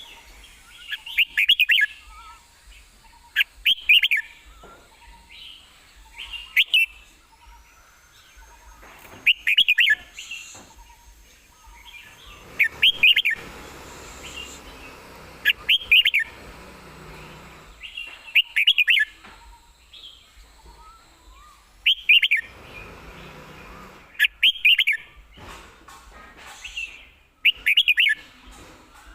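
Red-whiskered bulbul singing short, quick phrases, one every two to three seconds.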